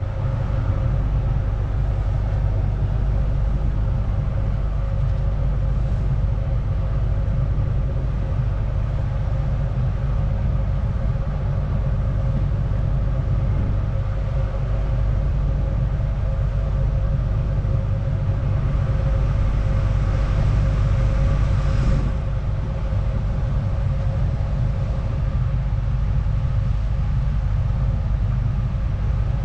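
Ferry engine running steadily: a deep, constant rumble with a steady hum over it. About two-thirds of the way through, a rushing hiss swells for a few seconds and stops abruptly.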